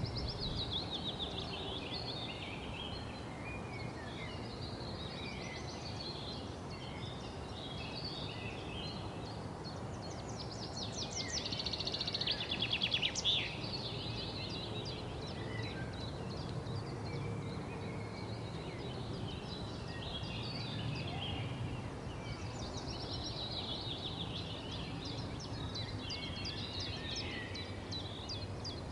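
Wild birds chirping and twittering over steady outdoor background noise, with a louder run of rapid chattering notes about a third of the way in.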